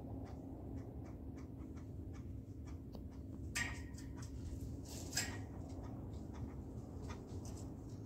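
Birds at hanging garden feeders: many light ticking and tapping clicks, with two louder brief sounds about three and a half and five seconds in, over a steady low background.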